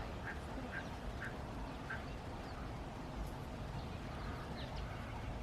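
Ducks quacking, five short calls in the first two seconds, with a few small-bird chirps later, over a steady low background noise.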